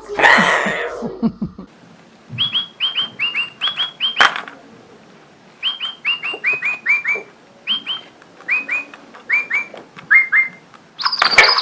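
Pet parrot whistling runs of short, slightly falling notes, two to six at a time, with pauses between the runs. It opens with a short burst of clattering noise, and a shrill, higher call begins just before the end.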